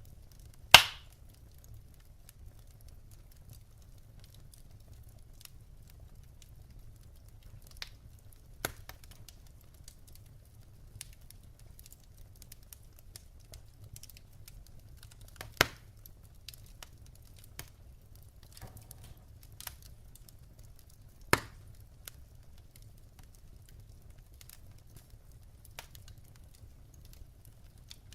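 Wood fire in a fireplace crackling: scattered small ticks from the burning logs, with sharper, louder pops about a second in, just past halfway and about three quarters through, over a faint low rumble.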